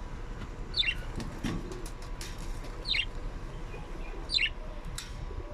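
A bird giving short, high chirps that drop in pitch, three of them spaced about a second and a half to two seconds apart, with faint scattered clicks between.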